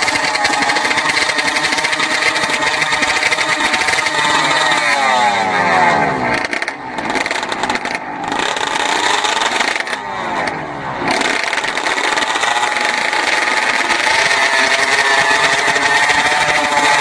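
Drag-racing motorcycle engines revving high at the start line. The revs drop away twice, about five and ten seconds in, then climb back up.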